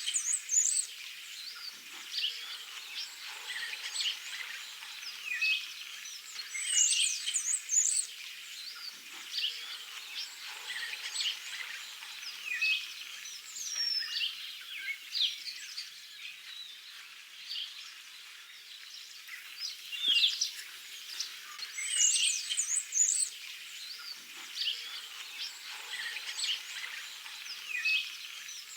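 Several songbirds chirping and singing at once, a steady run of short chirps and quick sweeping whistles, with a few louder, higher song phrases standing out now and then.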